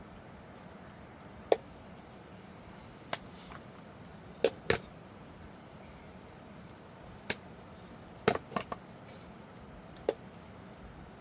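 Sharp chopping knocks, about ten at uneven intervals, with a quick run of three or four about three-quarters of the way through, like wood being chopped or split.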